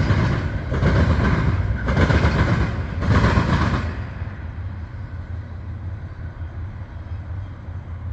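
Freight train cars rolling past, the wheels clattering over the rail joints in surges about once a second, then fading to a low rumble about four seconds in as the end of the train moves away.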